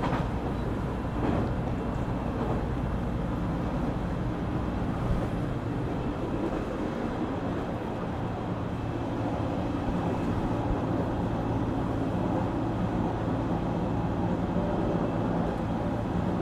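Cabin running sound of a JR Kyushu 817 series electric train at steady speed: a continuous rumble with a steady low hum, and a faint rail-joint click about a second in.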